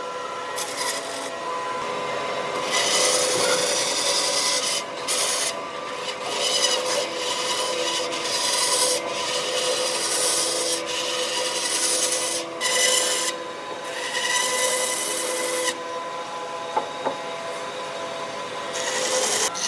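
Wood being abraded by a tool, a rasping, rubbing hiss that comes in uneven passes with short breaks, over a steady hum.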